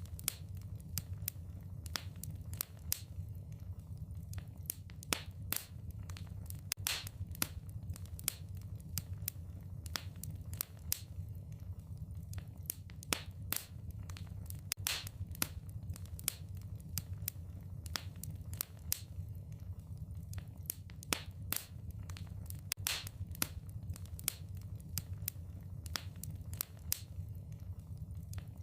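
Wood fire in a fireplace crackling: irregular sharp snaps and pops over a steady low rumble from the burning fire.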